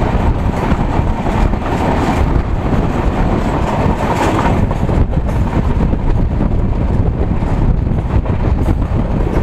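Passenger train running on the track, heard from an open coach doorway: a loud steady rumble of the wheels on the rails, mixed with wind on the microphone.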